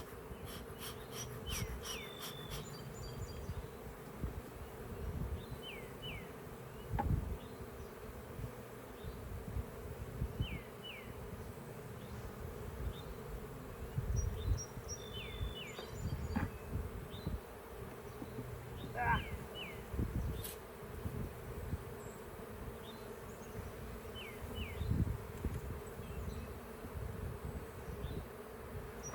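A honeybee colony buzzing around an opened hive, a steady hum throughout, with occasional low knocks and bumps.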